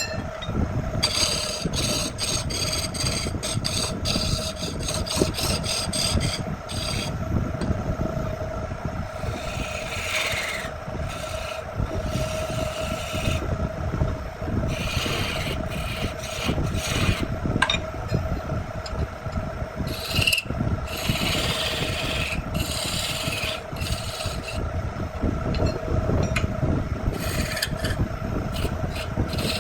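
A power tool's motor runs with a steady hum while the tool rasps into wood in repeated irregular bursts.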